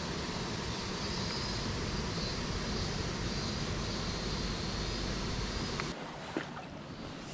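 Steady rushing of a mountain stream's water, an even roar that drops suddenly to a quieter rush about six seconds in, with a couple of faint knocks after the drop.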